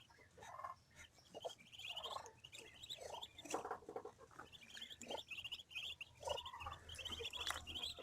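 Newly hatched ducklings peeping over and over in quick high trills, with a few lower sounds mixed in.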